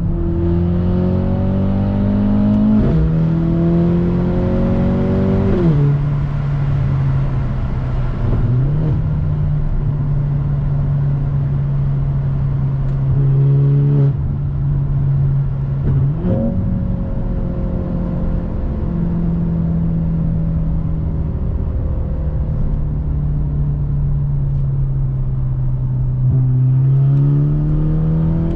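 Mercedes-AMG C43 (W206) turbocharged four-cylinder breathing through an aftermarket Fi exhaust and catless downpipe, pulling hard with rising revs and two quick upshifts in the first six seconds. It then settles into a steady cruising drone, gives a short blip about sixteen seconds in, and pulls up through the revs again near the end.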